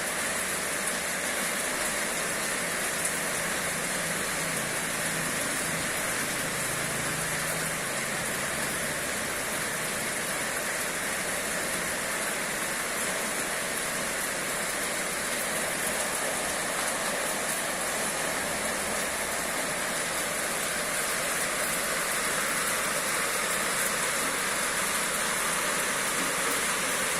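Steady rain falling: a constant, even hiss with no breaks.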